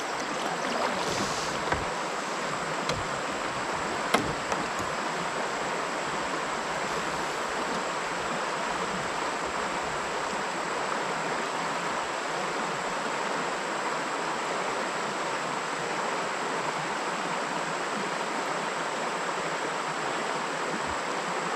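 Steady rush of flowing creek water, with a thin steady high tone over it and a couple of small knocks, the clearest about four seconds in.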